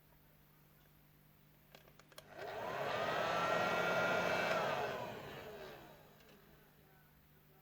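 A small electric motor with a fan or blower, clicked on about two seconds in, whirring up in pitch, running for about three seconds, then winding down.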